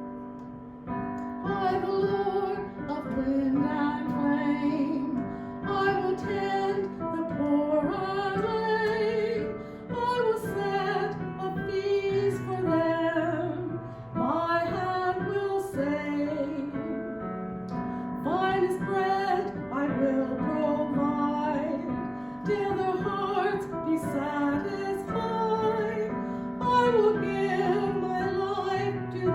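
A hymn sung by a female voice with vibrato over piano accompaniment.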